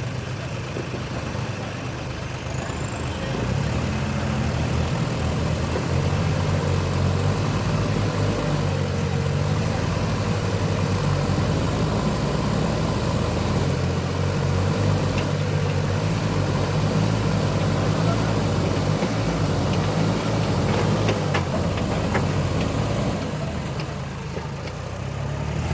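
Heavy farm diesel engine running steadily, working harder from a few seconds in until near the end.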